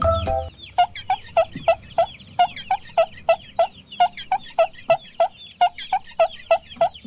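Chicken clucking: a long run of short, repeated clucks, about three or four a second. Music cuts off about half a second in.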